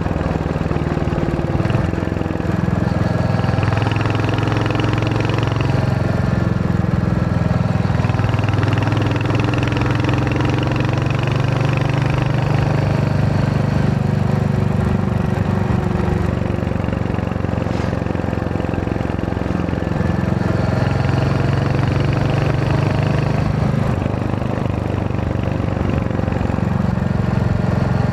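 Royal Enfield Hunter 350's single-cylinder engine running under way, its note rising and falling several times as the throttle opens and closes.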